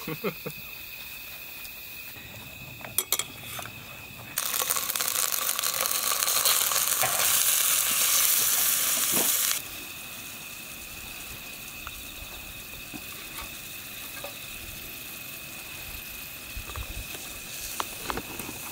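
Food sizzling in a hot pan for about five seconds, the hiss starting and stopping abruptly, after a couple of sharp utensil clicks.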